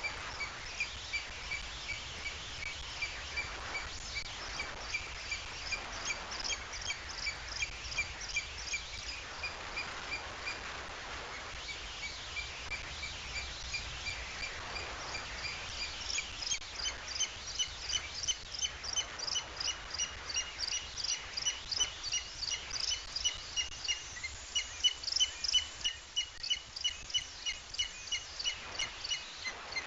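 High, thin chirps repeated evenly about two to three times a second without a break; about halfway through the pitch steps up, and the chirps grow louder near the end.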